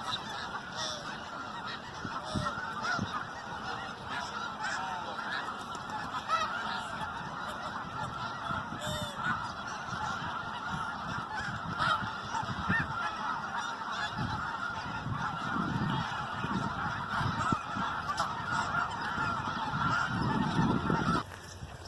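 A large flock of geese honking continuously, many overlapping calls at once. It cuts off abruptly shortly before the end.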